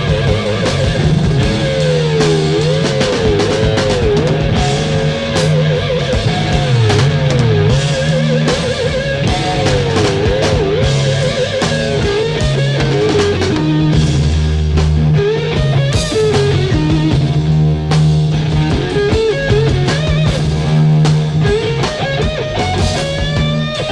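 Blues-rock guitar solo: a lead guitar line with wide vibrato and string bends over bass and drums.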